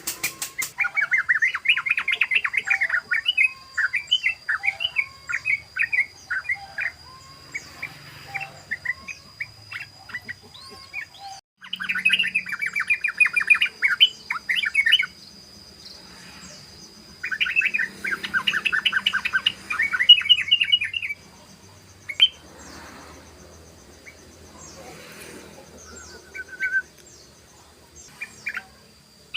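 Yellow-vented bulbul (trucukan) singing its rapid 'ropel' song: fast runs of repeated chattering notes in three main bouts, with scattered single notes between them. A faint steady high whine runs underneath.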